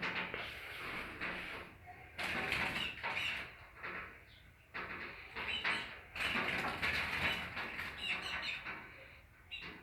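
A small bird flapping its wings in repeated flurries, with scuffling and tapping, as it goes at its own reflection in a mirror.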